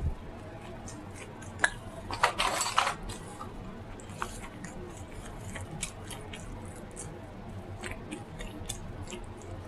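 Close-miked mouth sounds of a person eating: chewing with many short wet clicks and smacks, and a louder, noisier bite or crunch lasting about half a second a little over two seconds in.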